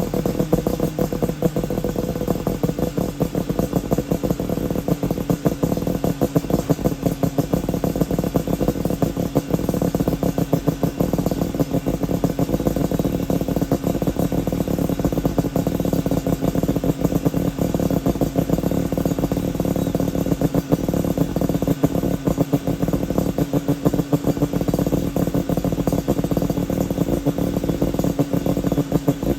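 Suzuki Jimny SJ30's two-stroke three-cylinder engine running at a steady speed through an APIO Matsumoto-type expansion chamber and Muffler 2, the exhaust giving a fast, even pulsing beat with no revving.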